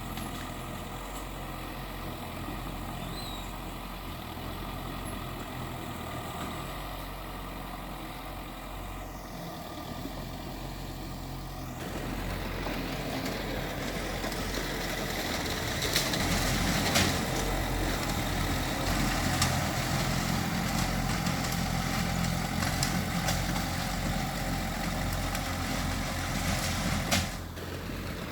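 Heavy diesel earthmoving machinery running steadily. About twelve seconds in it grows louder and rougher, with several sharp knocks over the following seconds.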